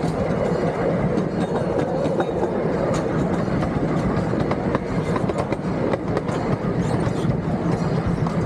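Miniature park train running along its track, heard from an open passenger car: a steady low drone with irregular clicking and rattling from the wheels on the rails.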